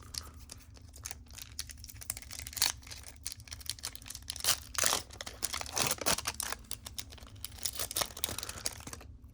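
Trading cards being handled: irregular light clicks, slides and crinkling as cards are flicked through, set down and their wrappers or sleeves rustle.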